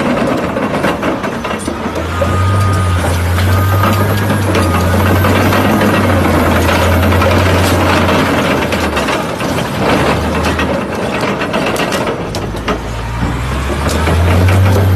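Caterpillar D11T bulldozer's big diesel engine running under load as its steel tracks roll over and flatten a car, with scattered cracks and crunches from the car body. The engine's low drone sags about two-thirds of the way through and then picks up again.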